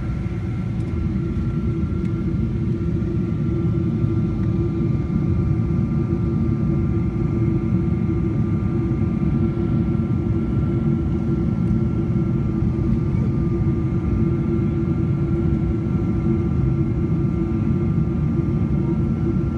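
Cabin noise of a Boeing 777-200ER in flight: a steady, loud rumble of airflow and Pratt & Whitney PW4090 turbofan engines, with a steady hum and a faint high whine over it.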